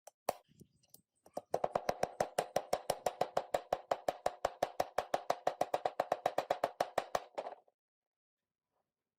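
Rapid, even tapping, about seven sharp strikes a second for some six seconds, after one single tap near the start; it stops suddenly.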